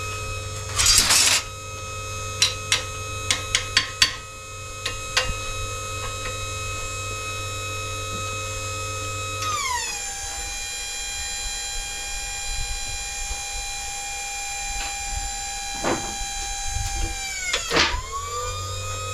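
Motor-driven shop machine running with a steady pitched whine over a low hum, with a burst of noise about a second in and several sharp metal clicks. About halfway through, the whine slides down to a lower pitch and holds there, then climbs back up near the end.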